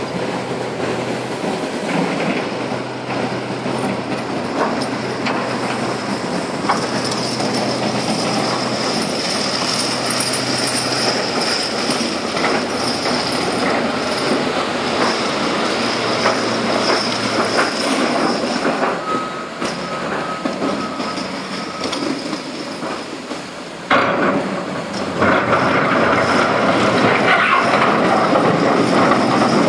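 Heavy marble-quarry machinery running continuously with a metallic rattle. A high squeal runs through the middle, and the noise jumps louder near the end.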